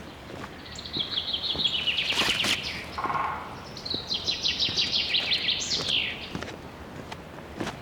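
A songbird singing two fast trilled phrases, each sliding downward and lasting about two seconds, with a short lower note between them. Footsteps on the trail tick softly underneath.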